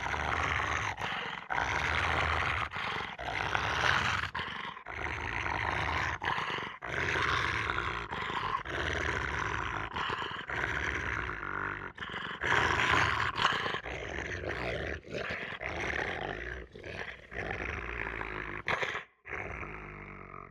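Dog growling and snarling aggressively in a run of rough growls, each a second or two long, with brief breaks between them.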